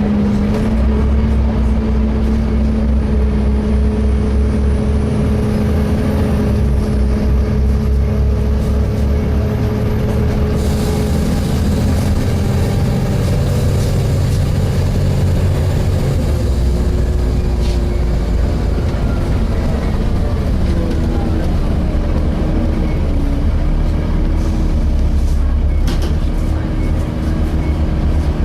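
Volvo B7TL double-decker bus's six-cylinder diesel engine running under way, heard from on board, its low hum shifting slowly in pitch. A hissing rush sets in about ten seconds in and drops away some six seconds later.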